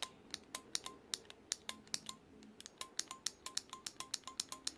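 Rebuilt Gottlieb pinball AS relay stepping under power: its armature and ratchet make a quick run of sharp metallic clicks, about five a second, with a brief pause a little before the middle. The even stepping is the sign of the cleaned and readjusted relay working properly.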